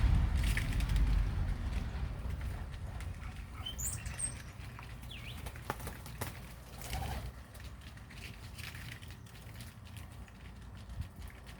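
Small birds fluttering and moving about, with scattered rustles and taps and a few brief high chirps about four to five seconds in. A low rumble at the start fades away.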